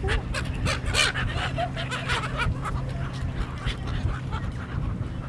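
A flock of gulls calling around someone feeding them, many short overlapping squawks, densest in the first few seconds. A steady low hum runs underneath.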